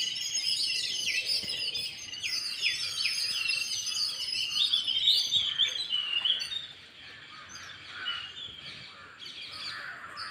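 Sparrows chirping: many short, overlapping chirps in a busy chorus that thins out and quietens about two-thirds of the way through.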